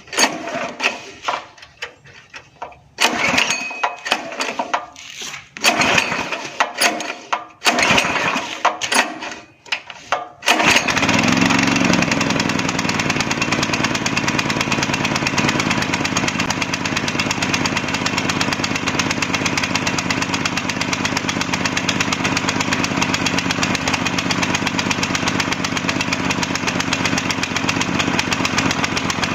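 Rotovator's small gasoline engine: several short irregular bursts, then about ten seconds in it catches and runs steadily. It is running again after its dirty carburetor was cleaned and its fuel hoses replaced.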